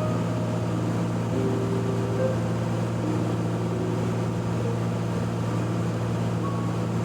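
Steady drone of a Cessna T182T's turbocharged six-cylinder engine and propeller in cruise flight, heard at an even level, with faint background music notes over it.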